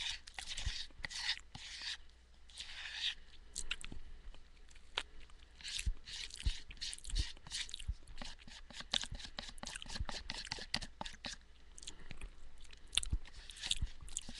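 Homemade granola of oats, almonds and sunflower seeds being chewed close to a headset microphone: a dense run of short crunching clicks, several a second, with a spoon scraping and tapping in a plastic tub.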